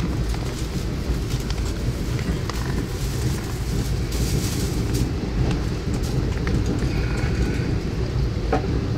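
A passenger train running along the track, with a steady low rumble throughout and a brief hiss about four seconds in.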